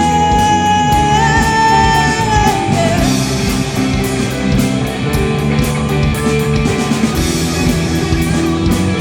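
Live rock band playing with drums, bass, electric guitars and keyboard. A held high note, the tail of the last sung line, ends about three seconds in, and the band carries on into an instrumental passage.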